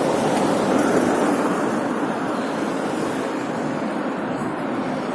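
Steady rushing road noise from traffic and travel, with no distinct engine note and no sudden events.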